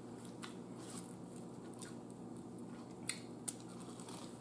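Faint chewing and eating sounds close to the microphone as a person eats by hand. There are a few small crisp clicks, the sharpest about three seconds in, over a steady low hum.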